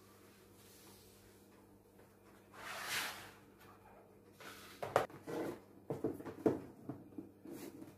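A brief rustling hiss, then a run of light, irregular knocks and clatters from household objects being handled and set down.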